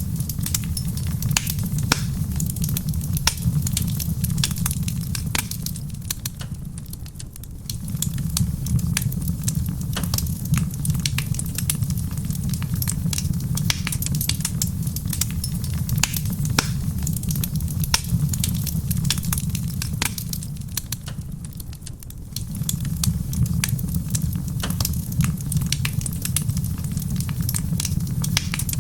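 Wood fire crackling, with frequent sharp pops and snaps over a steady low rumble. The rumble fades away twice, about six and twenty seconds in, and swells back each time.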